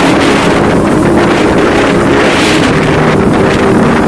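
Strong sandstorm wind blowing and buffeting the microphone: a loud, steady rush of noise.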